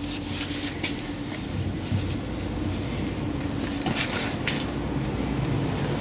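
Scraping and rubbing handling noises as an oil seal is worked into an MGA front hub, over a steady low hum.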